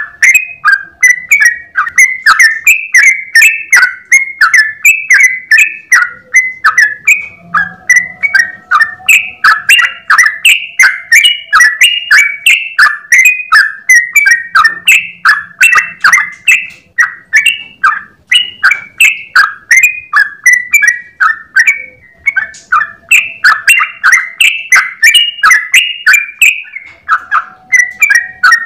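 Yellow-vented bulbul singing a long, fast 'ropel' song: a near-continuous run of short bubbly chirping notes, several a second, with only a couple of brief breaks.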